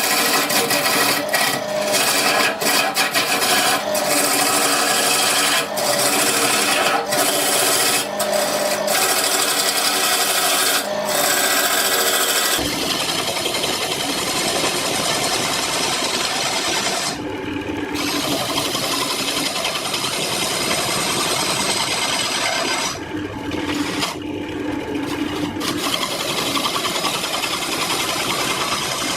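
Power tools working wood: a machine runs with a steady hum while repeated scraping strokes bite into the wood, then about halfway through the sound switches abruptly to a continuous, denser rasping that drops out briefly twice.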